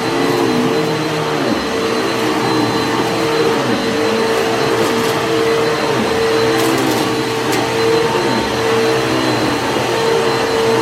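Vacuum cleaner running on dirty carpet, its motor pitch dipping and rising with each push and pull. A few sharp ticks and crunches in the middle are grit being sucked up from deep in the carpet pile.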